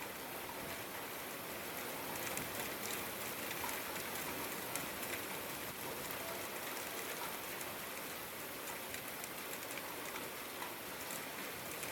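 Steady rainfall with a dense patter of individual drops landing on a surface.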